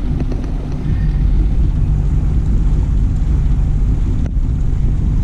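Boat engine running steadily with a low hum while underway, with wind buffeting the microphone.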